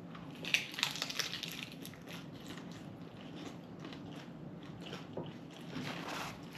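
Close eating sounds: a first bite of food followed by chewing, with short crunches and wet clicks, busiest about a second in and again near the end.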